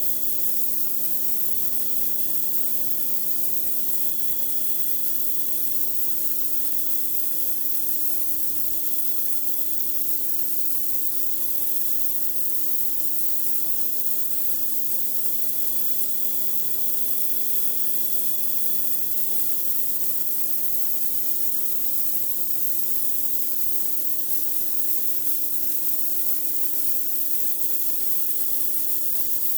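A pressure washer's high-pressure water jet hissing steadily as it blasts a dirty driveway, over the steady hum of the machine.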